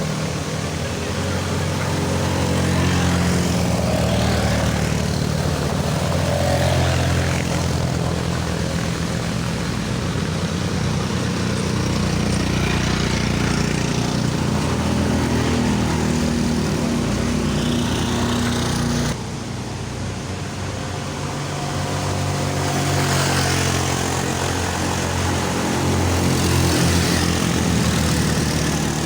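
Motor vehicle engine running steadily, a continuous low drone with a sudden drop in level about two-thirds through, after which it carries on.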